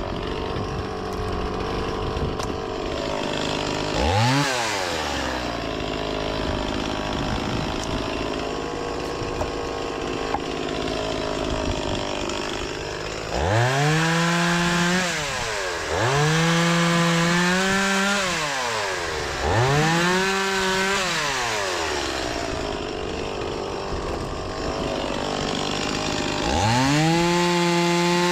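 Gasoline two-stroke chainsaw with a freshly sharpened chain cutting fruitwood logs. For the first half the engine runs steadily under load; after that it is throttled up to full revs and let fall back four times.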